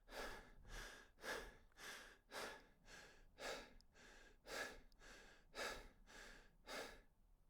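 A person breathing hard and fast, about two breaths a second, stopping shortly before the end.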